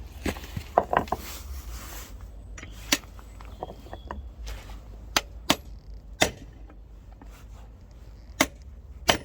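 Hammer blows on steel: about ten separate sharp knocks at irregular spacing, driving a locking wheel nut out of the smooth-bore conical socket it is wedged in.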